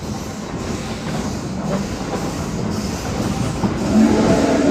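Tweetsie Railroad narrow-gauge passenger train rolling on its rails, heard from on board as a steady rumble with clacking of the wheels. It gets louder about four seconds in.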